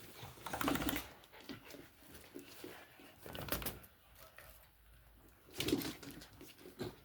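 Jack Russell terrier puppy sounds in three short bursts, about half a second in, a little past three seconds, and near six seconds.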